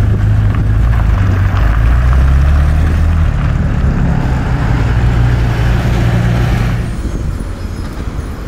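Classic Ferrari 308 GTB's V8 engine running at low revs as the car drives past and away, its exhaust note dropping off about seven seconds in.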